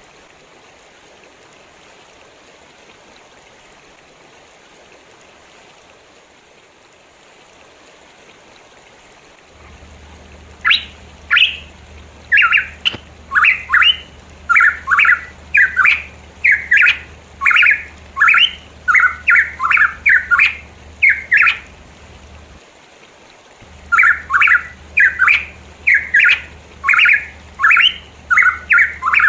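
A pitohui calling a rapid series of short, harsh, down-slurred notes, about two a second. The calls start about ten seconds in, break off briefly after about twenty-two seconds, then resume. Before the calls there is only a steady faint hiss.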